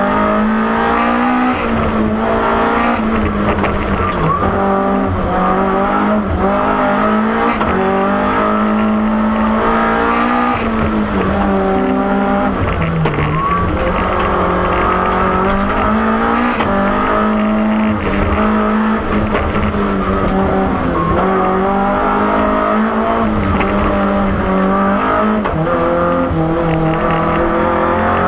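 BMW M3 E30 Group A rally car's four-cylinder engine heard from inside the cabin, driven hard: its pitch climbs under acceleration and drops back again and again through gearshifts and braking.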